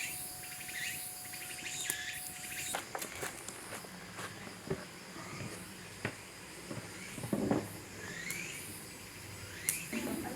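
Forest insects droning and chirping, with repeated short rising calls. A steady hum stops about three seconds in, and a few light knocks and clicks come through the ambience, the strongest about seven seconds in.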